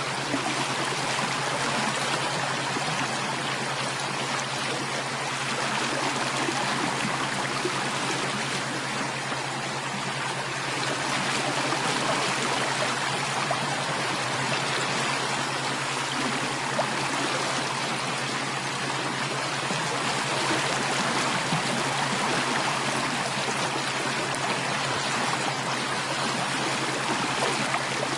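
Running water of a stream flowing steadily, an even rushing and trickling with no breaks.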